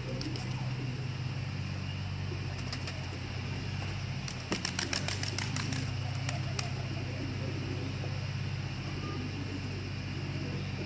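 Domestic pigeons cooing, with a burst of rapid wing flapping from about four to six and a half seconds in, over a steady low hum.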